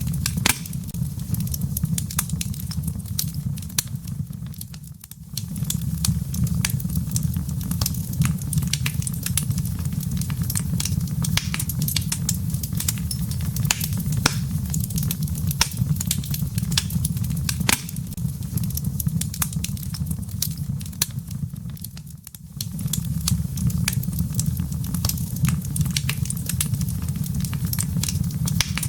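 Wood fire burning in a fireplace: dense, irregular crackles and pops from the firewood over a steady low rumble of the flames. The whole sound dips briefly twice, about five seconds in and near twenty-two seconds.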